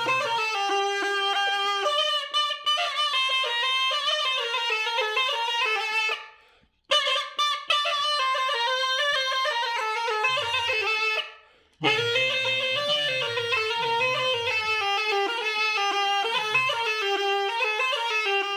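Iraqi mutbag, a reed pipe, playing a quick, ornamented folk melody. It breaks off briefly twice, about six and eleven seconds in.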